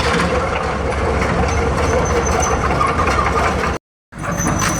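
Digger's diesel engine running steadily at a low rumble. The sound drops out completely for a moment near the end, then carries on.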